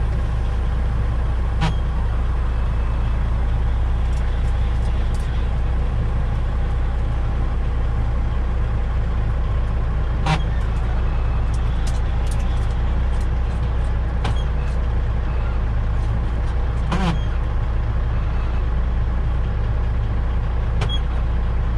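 Semi-truck's diesel engine running steadily, heard from inside the cab, with a few short clicks about two, ten and seventeen seconds in.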